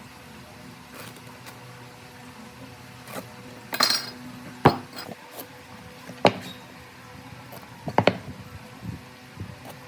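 Scattered metallic clinks and knocks, about five separate strikes spaced a second or more apart, from objects being handled and set down, over a faint steady hum.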